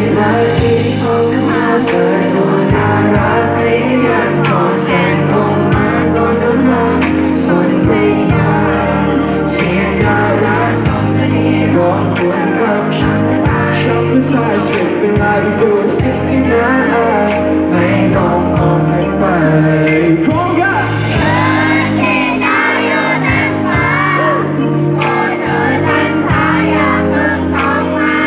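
A song performed live with band accompaniment and a male singer's voice, with a steady beat.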